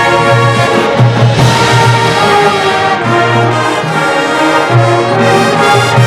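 Marching band brass section playing loud sustained chords over low bass notes, with a percussion hit about a second in.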